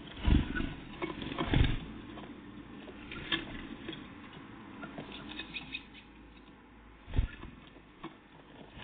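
Small birds, great tits and blue tits, feeding at close range: many small pecking and scratching clicks, with three heavier thumps about a third of a second in, around a second and a half in and about seven seconds in.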